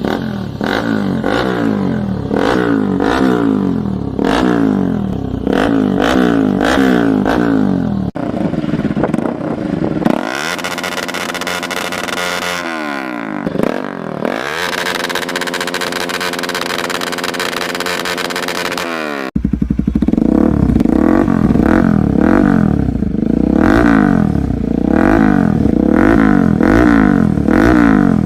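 Bajaj Pulsar NS200's single-cylinder engine revved again and again through different aftermarket exhausts: quick blips that rise and fall in pitch. The exhaust tone changes abruptly about eight, ten and nineteen seconds in, where one exhaust's clip gives way to the next.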